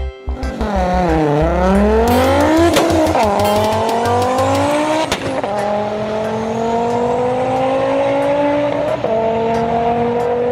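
Racing car engine revving hard and accelerating through the gears, a dubbed sound effect. The pitch dips and climbs at first, then rises in steps, dropping suddenly at each of about three upshifts.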